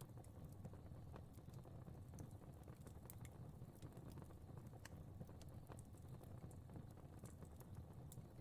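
Fire crackling faintly: irregular small pops and snaps over a low, steady rumble of burning flames.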